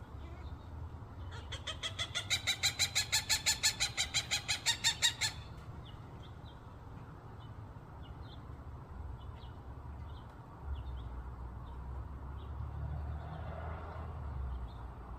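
Peregrine falcon giving a rapid run of harsh, evenly repeated calls during mating, about six a second for some four seconds, rising slightly in pitch. A few faint short chips follow.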